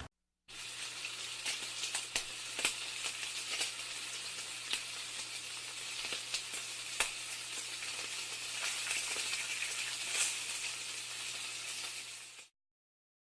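A steady sizzling hiss with scattered sharp crackles, over a faint steady low hum. It starts about half a second in and cuts off suddenly near the end.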